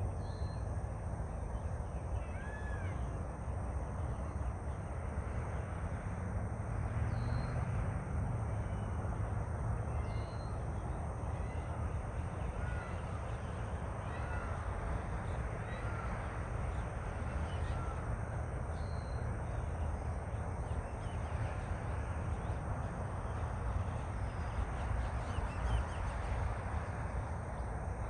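Outdoor birds calling, short arched calls repeating every second or two, over a steady low rumble.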